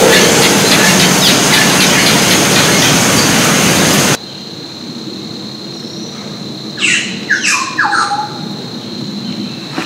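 A loud, steady rushing noise cuts off abruptly about four seconds in. Against a quieter background with a steady high tone, a yellow-rumped cacique then gives a quick run of three or four loud calls, each sweeping steeply down in pitch.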